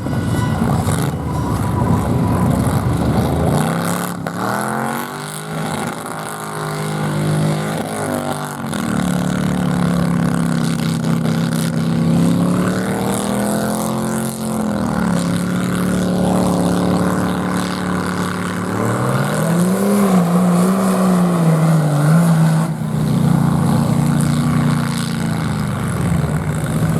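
Vehicle engine revving hard and repeatedly, its pitch climbing and dropping several times with steadier stretches in between.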